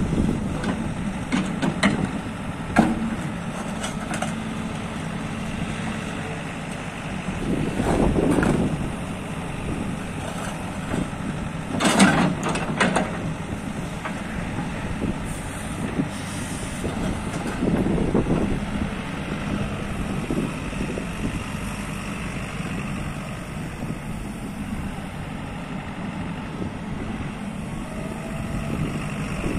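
JCB JS130 LC tracked excavator's diesel engine running steadily, swelling in loudness three times as it works, loudest about twelve seconds in. A few short sharp clanks come in the first few seconds.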